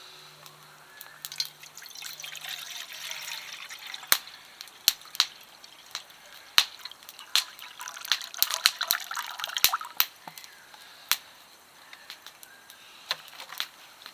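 Water pouring and dripping, with many sharp, irregular clicks and taps.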